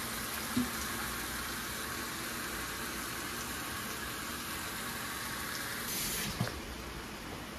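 Steady sizzling of food frying in a hot pan, with a couple of light utensil knocks, one near the start and one about six seconds in.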